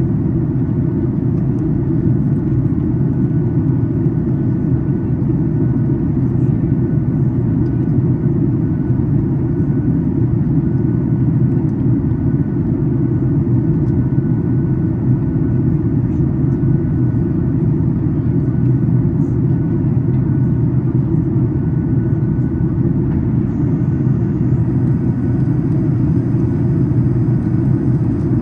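Steady cabin noise inside a Boeing 737 MAX 8 on its descent: a low, even rumble of airflow and engines at constant level.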